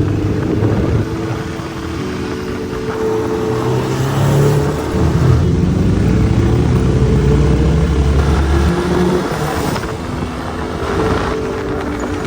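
Benelli 600 superbike's engine running on the road, its pitch rising and falling with the throttle and loudest in the middle stretch.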